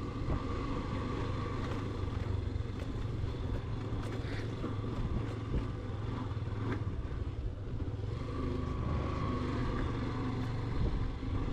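Motorcycle engine running steadily while riding, with a low hum throughout.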